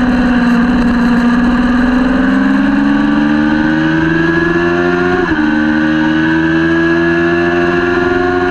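Kawasaki Ninja 400 parallel-twin racing engine under way. The pitch drops for about two seconds as the throttle comes off, then climbs steadily under hard acceleration, with a quick upshift about five seconds in before it climbs again.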